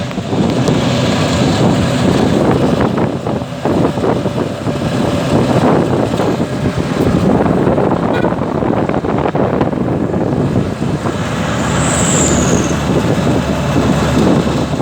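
Tosa three-wheeled motorcycle truck on the move, heard from on board: steady engine and road noise with frequent knocks and rattles as it bounces along. A brief high falling squeak sounds about twelve seconds in.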